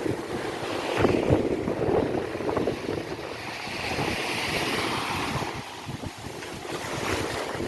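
Ocean waves washing onto a beach, surging and receding, with wind buffeting the microphone.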